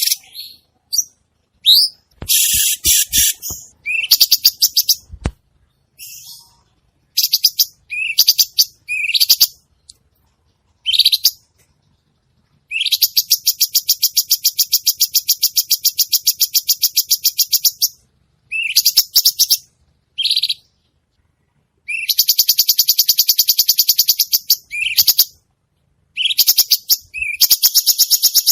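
A cucak cungkok songbird singing persistently. It gives short rising chirps, and between them long rapid rattling trills that each run for several seconds.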